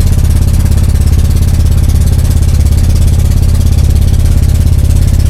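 Small boat's pull-start motor running steadily under way, loud and close with a fast, even throb.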